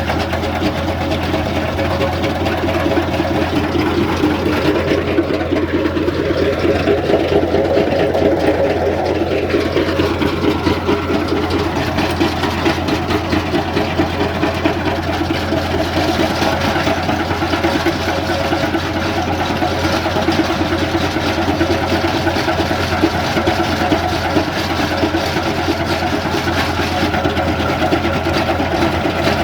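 Tractor engine running steadily with a continuous low hum and a busy mechanical clatter over it.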